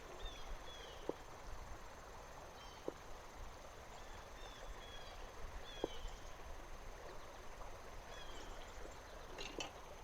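Faint riverside ambience: a low steady wash with a bird's short, high, falling chirps repeated every second or so, and three soft clicks.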